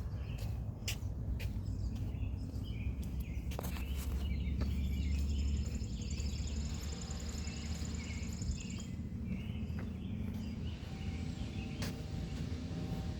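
Forest ambience on a walk: wind rumbling on the microphone, small birds chirping, and a high pulsing insect trill from about four to nine seconds in, with a few footstep crunches in the first seconds.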